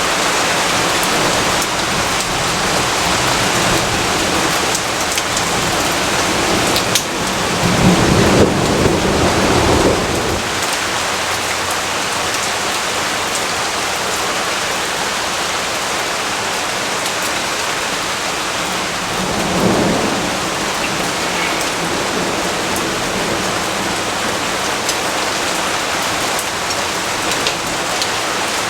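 Steady rain falling, with thunder rumbling twice: a longer roll about seven to ten seconds in and a shorter one near twenty seconds.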